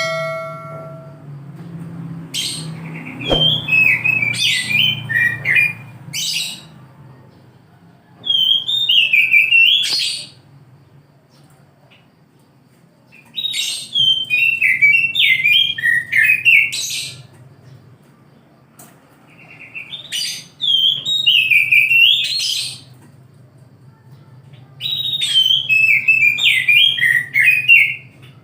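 Oriental magpie-robin (kacer) singing: five loud bouts of quick, varied whistled phrases, each a few seconds long and separated by short pauses, over a low steady hum.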